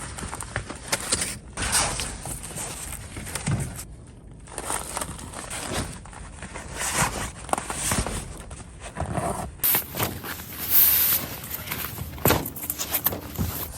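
Footsteps with irregular rustling, scraping and a few sharp knocks: someone moving about and handling camping gear.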